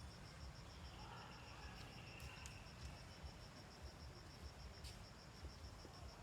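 Faint insect chirping: a steady high-pitched pulse repeating about six times a second, over a low rumble of wind or handling noise.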